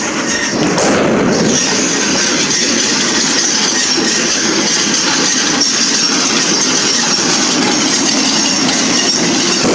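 Loud, steady street din from a bonfire-night procession, with one sharp firework banger going off about a second in.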